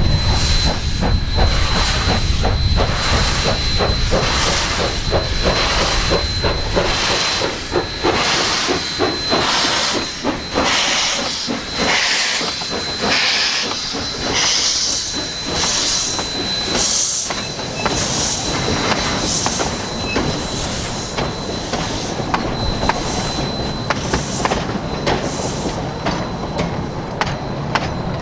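Narrow-gauge steam locomotive working a departing train, its exhaust chuffing in a steady rhythm over a background of steam hiss. A low rumble in the first few seconds dies away.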